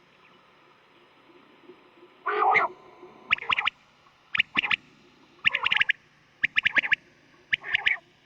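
Quail calling: clusters of sharp, quick notes, one cluster about every second, starting about two seconds in. This is a recorded quail call of the kind used as a hunting lure.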